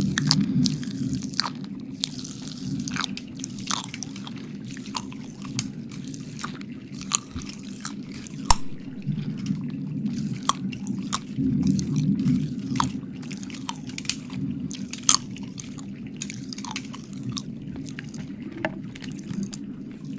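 Wet mouth sounds very close to the microphone: irregular clicks, smacks and squelches of licking and chewing, over a low steady hum.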